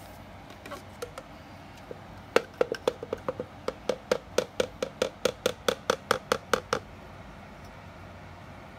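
A quick run of about twenty light knocks or taps, about four or five a second, lasting some four seconds.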